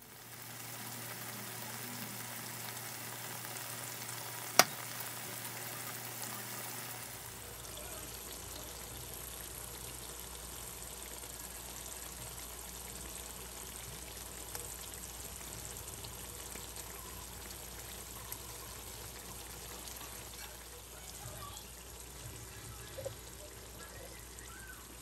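Mutton karahi curry sizzling steadily as it fries in the pan. One sharp click about four and a half seconds in.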